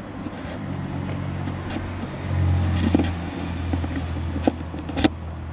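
A motor vehicle's engine drones steadily and swells about two seconds in. Over it come a few light clicks and knocks as the black-painted 3D-printed tail lights hanging on wires in a cardboard spray box are handled, the sharpest knock near the end.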